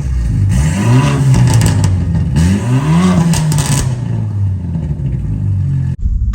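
BMW F30 328i's turbocharged four-cylinder engine revved twice, each rev rising and falling back to a steady idle.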